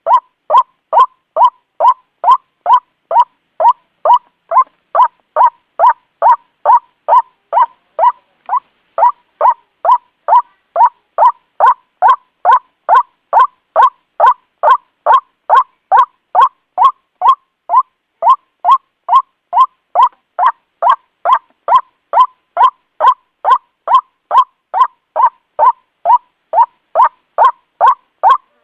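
White-breasted waterhen giving its monotonous 'kru-ak' call over and over, about two short notes a second. This is a looped recording used as a bird-trapping lure.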